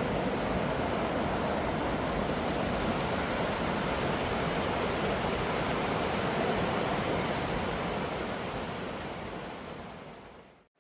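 Steady rush of a waterfall close by, even and unbroken, fading out over the last couple of seconds.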